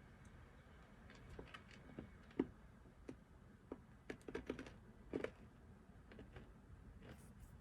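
Computer keyboard being typed on, faint, irregular keystrokes with a short burst about four to five seconds in.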